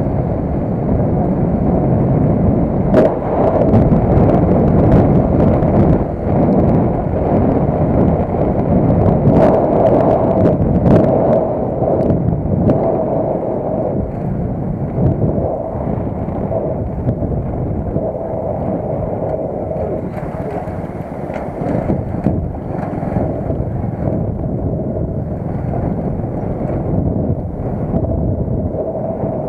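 Wind buffeting the microphone on the move, with rumbling ride noise underneath, a faint steady whine that comes and goes, and a few sharp clicks or knocks.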